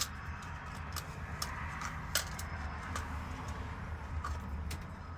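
A few sharp, separate clicks from a key being handled while its cuts are read, over a steady low hum.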